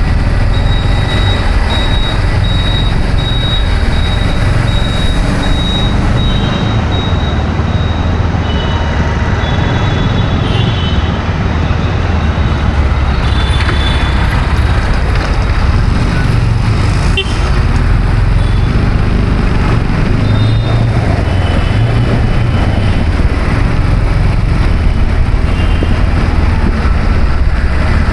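City road traffic: a steady low rumble of engines and tyres. A run of short, evenly spaced high beeps sounds through the first eight seconds or so, and a few more come later.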